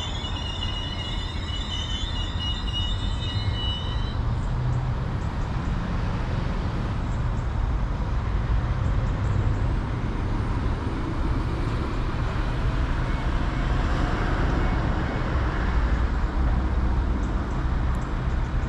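Northern Class 195 diesel multiple unit at the platform: a few high squealing tones, typical of brakes, fade out about four seconds in, over a steady low diesel rumble that swells a little toward the middle.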